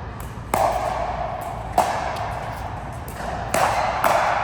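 Rally of four sharp ball strikes, about one to two seconds apart, each ringing briefly in the court.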